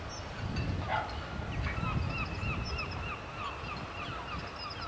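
Low rumble of a departing freight train. From about a second and a half in, a high chirping repeats about four times a second over it.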